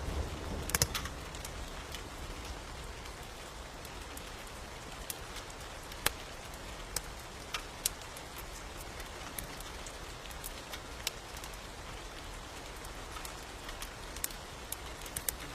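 Steady rain hiss with scattered sharp crackles and pops from a wood fire in a fireplace, coming at irregular moments.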